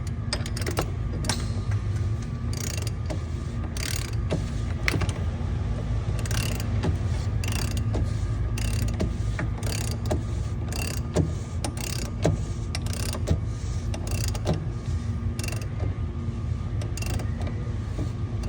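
Ratchet wrench clicking in repeated short strokes as a fuel filter housing cap is turned down with a cap socket, over a steady low hum.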